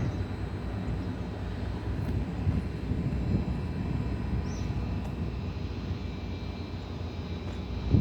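ATR 72-600's Pratt & Whitney PW127M turboprop engines running, a steady rumble with a few thin steady whining tones above it.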